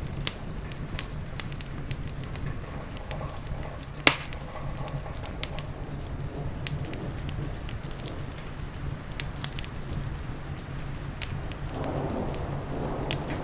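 Wood fire crackling with scattered sharp pops, one loud pop about four seconds in, over steady heavy rain and a low, even rumble.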